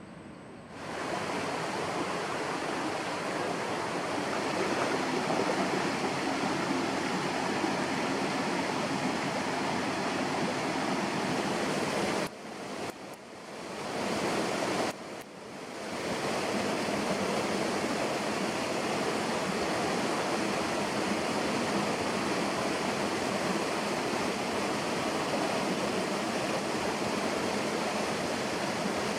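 Steady rushing of flowing water, cut off briefly twice near the middle.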